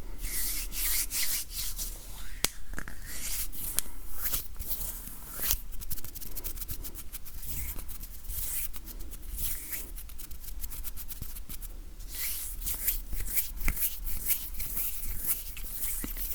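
Hands rubbing together close to the microphone, an irregular run of dry, high-pitched rubbing strokes with small taps and clicks mixed in.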